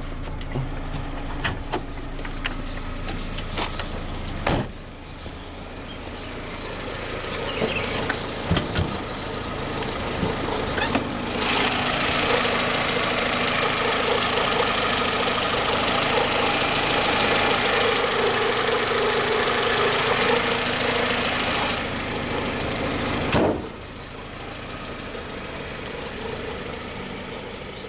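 Peugeot 206 engine running under an open hood, with a steady low hum and scattered clicks. Partway through it becomes much louder for about ten seconds, then drops back after a sharp knock.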